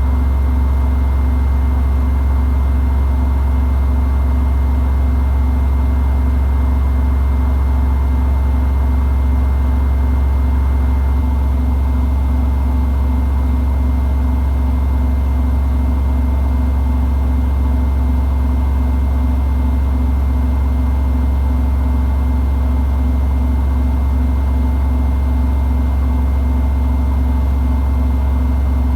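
Samsung WW90J5475FX digital inverter washing machine spinning at high speed: a deep, steady hum that holds an even pitch throughout.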